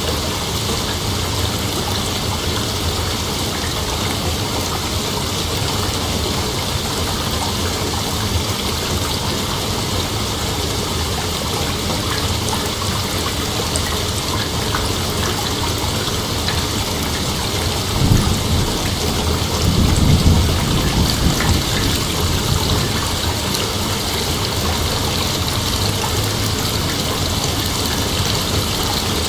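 Steady outdoor night ambience: a dense, continuous hiss with a low rumble underneath, swelling briefly twice in the second half.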